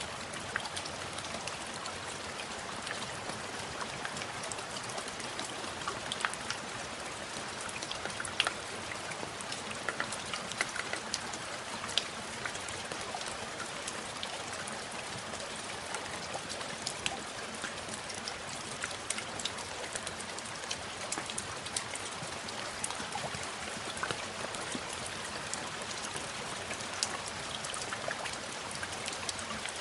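Steady rain: an even hiss with many single drops ticking sharply all through.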